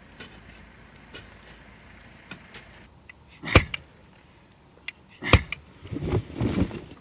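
Hand tools working gypsum rock: two loud, sharp strikes with a short ring, a little under two seconds apart, then a second of rough knocking and scraping, over scattered small clicks.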